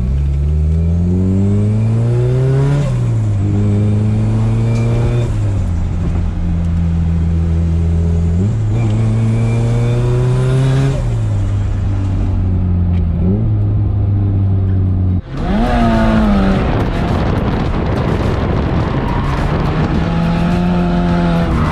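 Turbocharged Nissan S13 engine through its custom welded exhaust, pulling through the gears. The pitch climbs, drops sharply at each shift, then holds steady while cruising. About fifteen seconds in, the sound breaks off abruptly into a rougher, noisier engine sound.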